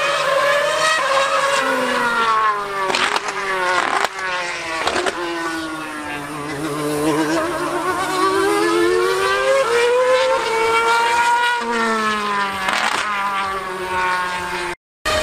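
2013 Formula 1 car's 2.4-litre V8 running at high revs, its pitch climbing and falling again and again with sharp breaks at the gear changes. The sound cuts out for a moment near the end.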